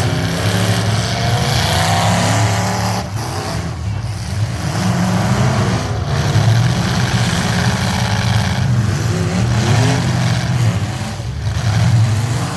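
Truck engines running and accelerating, the engine pitch climbing several times with brief breaks between the climbs.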